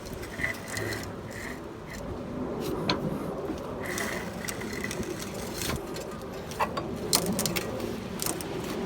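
The air-cooled flat-four engine of a 1962 Volkswagen Type 2, long seized-up, being turned over without running, with irregular clicks and scraping and a few brief squeaks from its perished fan belt, which is peeling off as the pulley turns.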